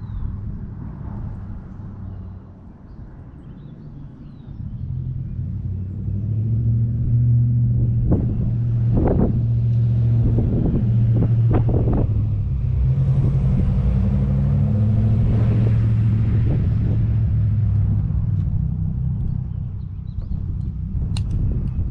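A motor vehicle's engine running with a low, steady hum. It grows louder about five seconds in and eases off near the end, with a few sharp clicks about halfway through.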